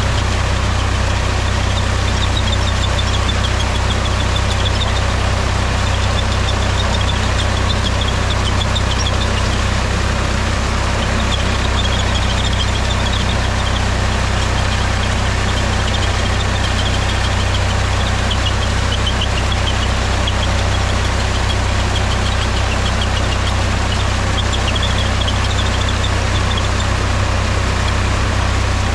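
Mahindra farm tractor's diesel engine running at a steady, unchanging speed.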